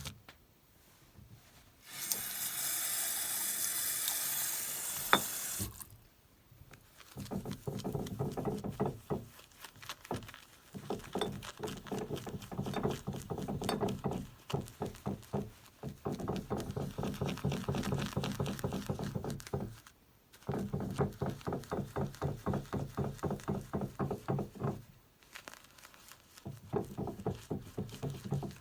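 A short run of tap water, then a synthetic shaving brush whipping soap into lather in a shaving scuttle: rapid rhythmic swishing strokes in runs of a few seconds with brief pauses between them.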